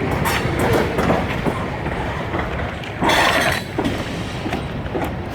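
Freight train rolling past, a steady rumble with wheels clacking over the rail joints and a louder burst of wheel and rail noise about three seconds in.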